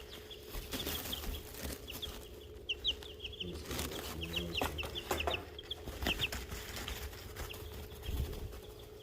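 Young chicks about three weeks old peeping in quick runs of short high chirps, with scratching and scuffling in their dust bath litter.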